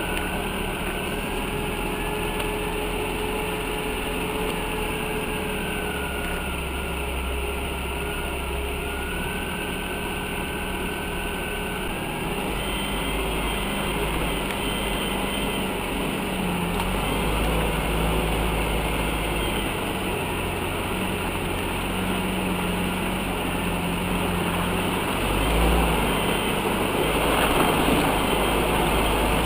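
UAZ off-road vehicle's engine running as it drives, its speed rising and falling.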